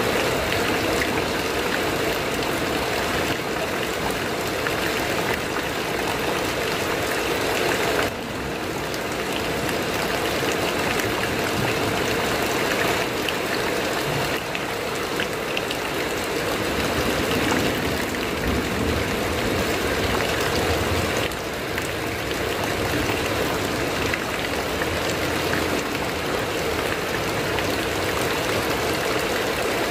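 Heavy rain falling on a corrugated metal roof, a dense, steady patter that dips briefly twice.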